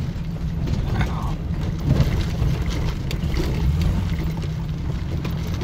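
Vehicle engine running at low speed, heard from inside the cab while rolling slowly over a rocky dirt trail: a steady low rumble with occasional light clicks and knocks.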